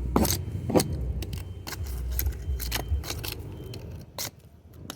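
Hand scraper scraping old paint off a surface in short, irregular strokes, with light metallic clinks, over a low rumble.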